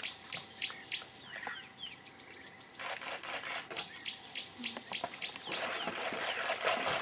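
Birds chirping in quick, repeated high calls. A steady hiss rises about halfway through and grows stronger near the end.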